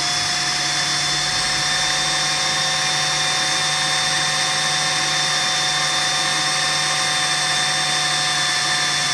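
Dyson Animal cordless vacuum running with its rotating brush drum: a steady high whine over a hiss, holding without cutting out, the sign that the drum's drive wheel has been cleared of the hair that had been stopping it.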